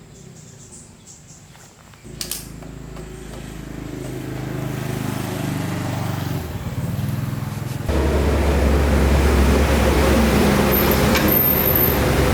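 Honda four-stroke motorbike engine catching about two seconds in and running steadily, then running much louder from about eight seconds in.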